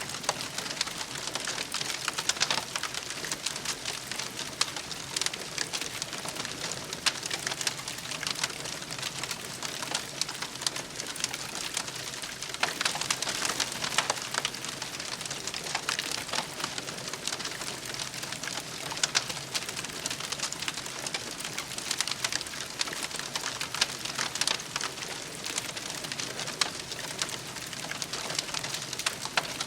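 Wood campfire crackling steadily, dense small crackles with a sharper pop every few seconds.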